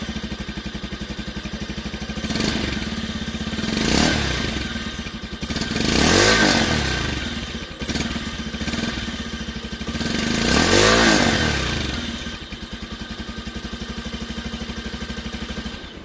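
Bajaj Pulsar 180F BS6's fuel-injected single-cylinder engine idling through its catalytic-converter exhaust, blipped several times: a small rev about four seconds in, then two bigger revs near the middle and about eleven seconds in, each rising and falling back to idle.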